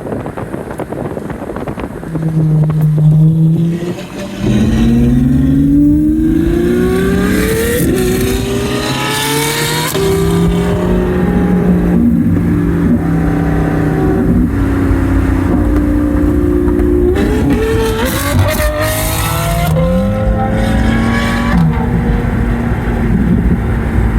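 Ferrari V12 with a custom exhaust under way: a steady note, a brief dip about four seconds in, then the engine accelerates hard, its pitch climbing and dropping back at each gear change, and it ends on a steady higher note.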